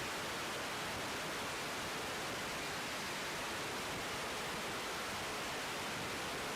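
Steady, even hiss of radio static from an air traffic control radio feed between transmissions, unchanging throughout.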